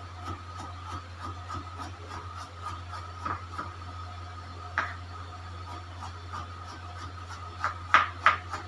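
Knife cutting carrots on a chopping board: irregular knocks with pauses between them, and a few louder strokes near the end, over a steady low hum.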